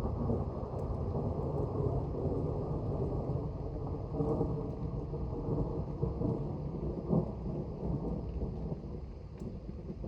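Rolling thunder from an approaching thunderstorm: a long, continuous low rumble with a brief louder peak about seven seconds in.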